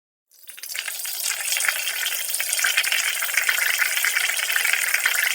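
Peeing sound effect: a steady stream of liquid splashing, building up over the first second and then holding.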